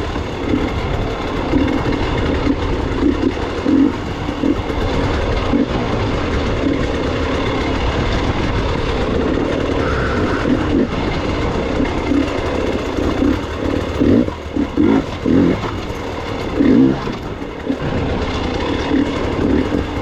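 Gas Gas EX 300 two-stroke enduro motorcycle engine running as the bike is ridden back down a rough trail, its level rising and falling unevenly with the throttle.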